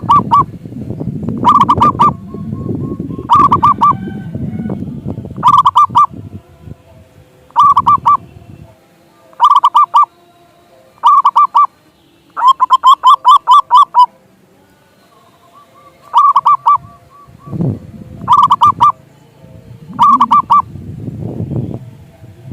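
Zebra dove (perkutut) cooing: short phrases of rapid staccato notes repeated about every two seconds, with one longer run of notes near the middle. A low rumble sits under several of the phrases.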